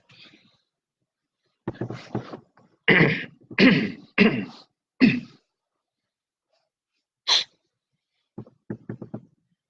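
A person sneezing and coughing in several short loud bursts, then one brief hissy burst, with a few quick taps near the end.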